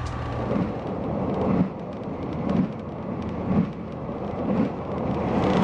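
Passenger train running along the track, heard from inside the carriage: a steady rumble with a regular thump of the wheels about once a second. A low hum from the running gear drops away a little under two seconds in.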